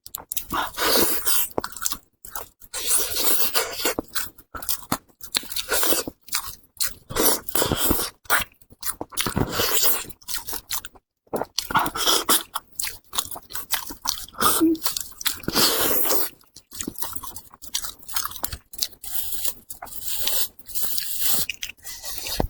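Close-miked chewing and crunching of pig's head meat, in irregular mouthfuls with short pauses.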